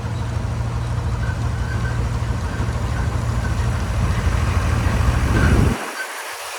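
Heavy diesel engine running with a steady, fluttering low rumble that grows slightly louder. It cuts off abruptly near the end, leaving a fainter hiss.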